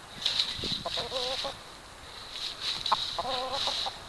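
A hen making two wavering clucking calls, one about a second in and one near the end, with short bursts of rustling noise between them.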